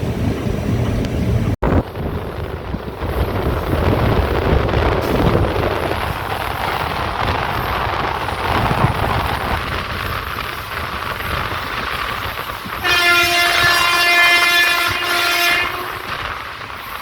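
A moving passenger train heard from inside a coach at the front, with a steady rumble of wheels on the rails. About thirteen seconds in, the diesel locomotive's horn sounds for about three seconds.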